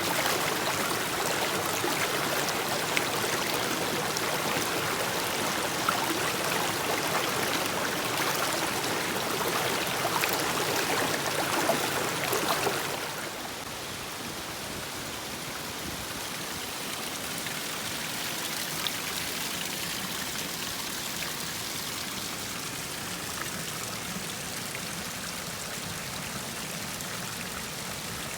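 Rushing water of a mountain stream, a steady even hiss that is louder for the first dozen seconds and then drops to a softer flow about thirteen seconds in.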